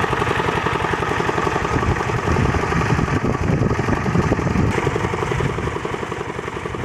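Rajkot single-cylinder diesel engine driving a water pump, running steadily with a rapid, even beat.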